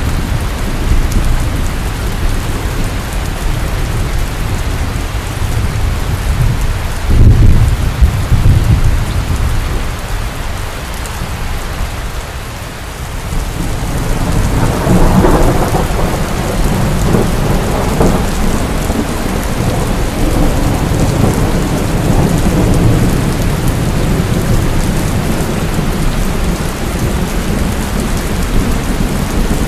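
Heavy rain falling steadily under rolling thunder. A sharp, loud clap comes about seven seconds in, and a long rumble swells up from about halfway through before dying back into the rain.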